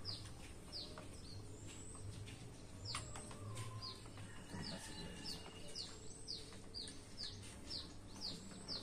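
A small bird chirping over and over in short, high notes that fall in pitch, two or three a second, with a few faint clicks and knocks among them.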